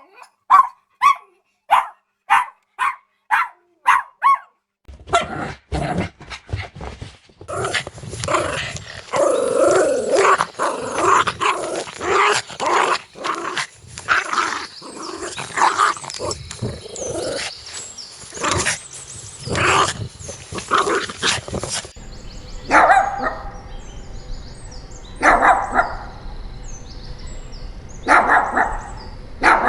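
Puppies barking and growling in play. About ten quick, high yaps come in the first four seconds, then a busy stretch of overlapping yaps and growls, then a few single barks a couple of seconds apart near the end.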